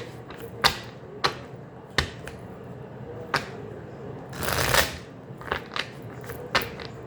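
Tarot cards being handled: a series of sharp, irregular card snaps and taps, with one longer swish of cards sliding together about four and a half seconds in.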